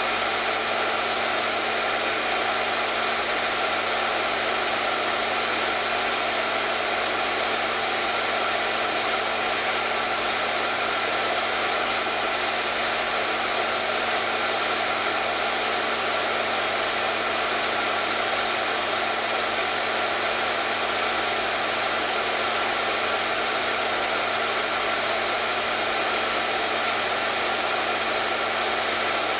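Hair dryer running continuously, a steady even rush of air with a low motor hum underneath, unchanging throughout.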